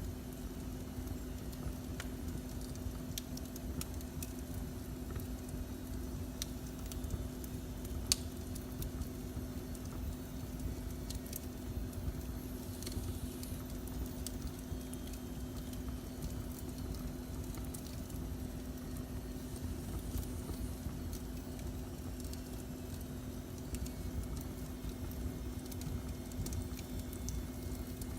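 Wood fire burning in a fireplace, with scattered crackles and pops and one sharper pop about eight seconds in, over a steady low rumble and hum.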